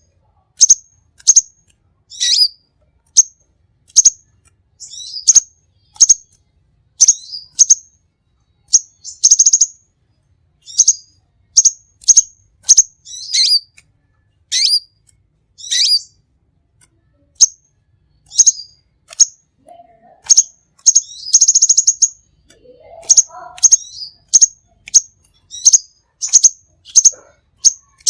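Songbird repeating sharp, high chirps roughly once or twice a second, some of them buzzy and rattling, with a few softer, lower notes about three-quarters of the way through.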